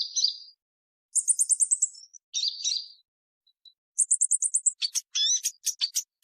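Purple-throated sunbird calling: high, thin chirps with two quick twittering runs of about eight notes each, about a second in and again about four seconds in, then several short sharp call notes near the end.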